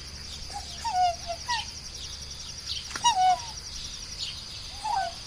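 A bird giving short calls that slide downward in pitch, four times, with quick upper notes, over a steady high-pitched pulsing drone.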